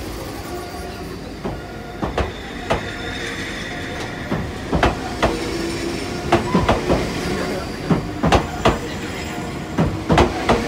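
Enoden (Enoshima Electric Railway) train moving past the platform, its wheels clacking over rail joints in irregular pairs and clusters above a steady running noise.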